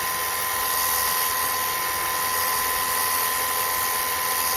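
Ontel Turbo Jet HydroX5 Pro cordless battery pressure washer running steadily, its pump motor whining at a constant pitch over the hiss of the water jet.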